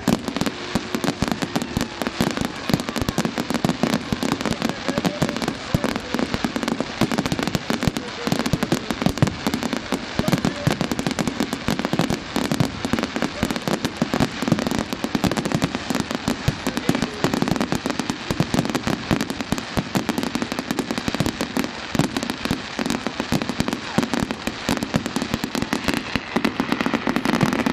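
Fireworks going off in a continuous, rapid barrage of bangs and crackles.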